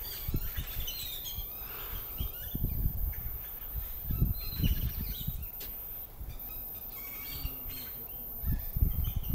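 Birds chirping and calling in short scattered notes, with wind buffeting the microphone in low, irregular gusts.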